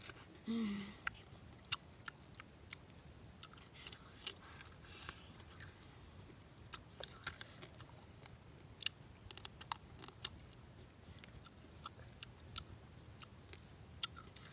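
A person chewing and eating scorpion, with many irregular sharp crackles from mouth and fingers picking at the food in a coconut-shell bowl. A brief hum of the voice about half a second in.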